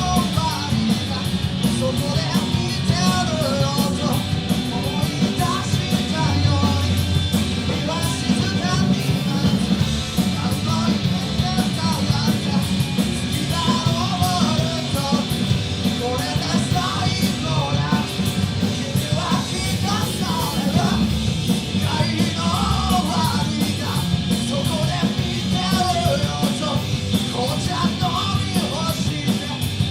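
Rock band playing a punk-rock song, with shouted singing over guitars, bass, drums and keyboard.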